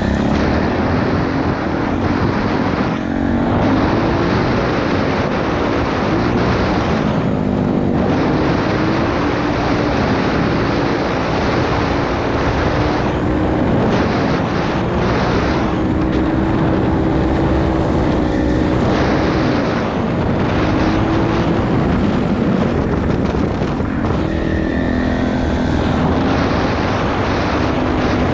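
Pit bike engine running while riding, its pitch rising and falling with the throttle, with wind rushing over the microphone.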